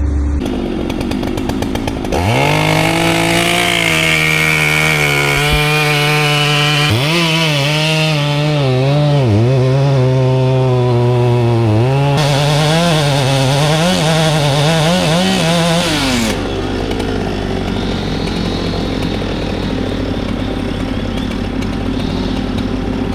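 Two-stroke chainsaw revving up about two seconds in and cutting through wood, its pitch dipping several times as the chain loads in the cut, then winding down about two-thirds of the way through. A steady engine note carries on underneath after the saw stops.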